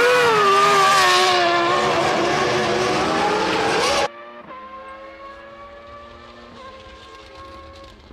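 Formula One car's V10 engine running at high revs, its note dipping and climbing with the throttle. About four seconds in, the sound cuts off abruptly to a much quieter, steadier engine note.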